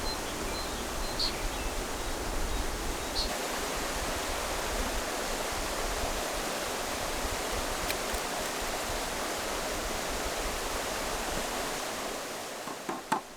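A valley stream running with a steady rush of water, with a few short high chirps in the first few seconds. Two sharp clicks come near the end.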